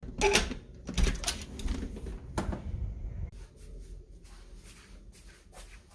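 Handling noise: several clicks and knocks in the first two and a half seconds, then fainter rustling and light ticks.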